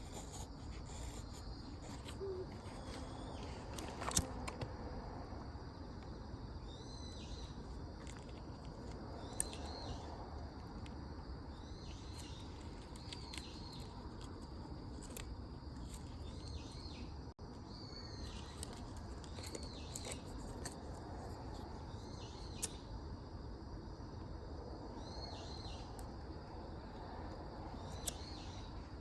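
A bird calling over and over, short high calls every second or two, over a steady outdoor background with a few sharp clicks now and then.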